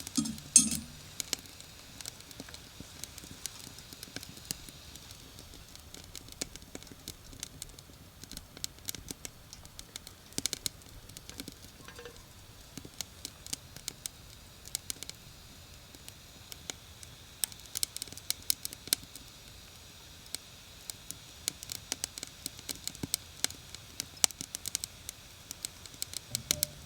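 Wood campfire crackling, with scattered sharp pops and snaps over a faint steady hiss. A louder knock comes about half a second in.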